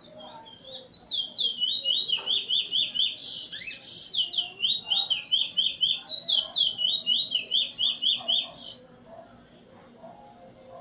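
A songbird singing a long rolling song of quickly repeated, sweeping chirps in several runs. It starts about a second in and stops abruptly near the end.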